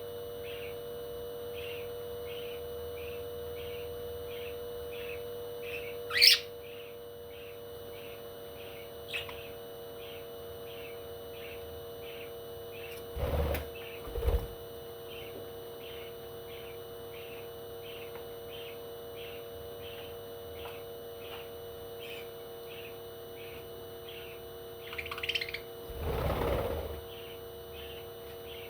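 A bird chirping steadily, a short high chirp about twice a second, over a steady electrical hum. About six seconds in there is one loud, sharp rising call. A few brief bumps come near the middle and near the end.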